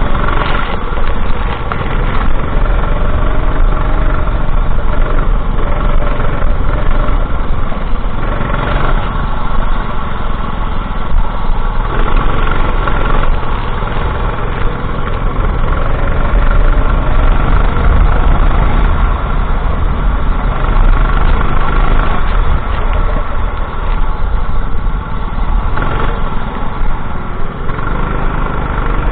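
Racing kart engine running continuously under way, its pitch rising and falling slowly as the throttle changes through the corners.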